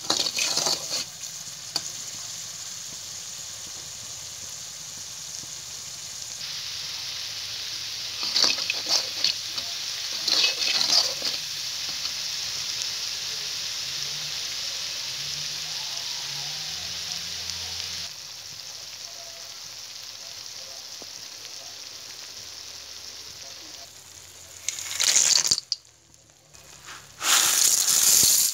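Sambal chilli paste sizzling in oil in a wok, a steady hiss broken by several bursts of a spatula scraping and stirring. The loudest stirring comes near the end, as the cornflake, peanut and anchovy mixture is tossed in the wok.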